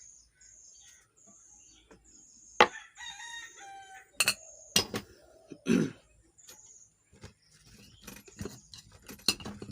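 A rooster crows once, about three seconds in, over steady cricket chirping. Sharp knocks and clicks come through it, the loudest just before the crow, with a run of smaller clicks near the end.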